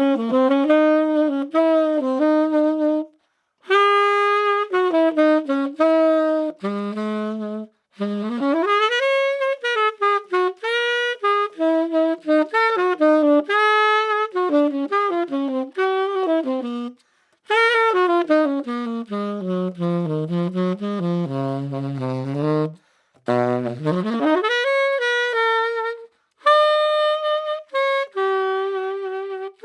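SaxWorks Master Series SML tenor saxophone played solo and unaccompanied, in jazz phrases with short breaks between them, moving up and down the range and dropping to its lowest notes a little past two thirds through.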